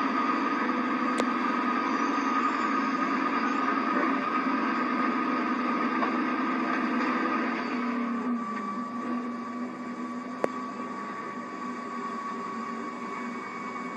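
NASCAR Cup stock car's V8 engine running steadily at low speed, heard from the in-car camera through a television's speaker. About eight seconds in the note drops slightly and runs quieter as the car slows, and there is one sharp click near the end.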